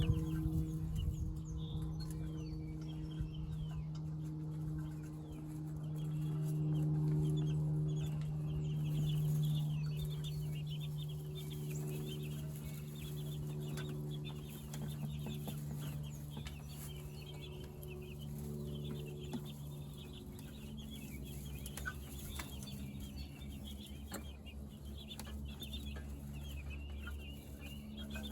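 A flock of meat chickens (broilers) peeping and clucking continuously, over a steady low hum.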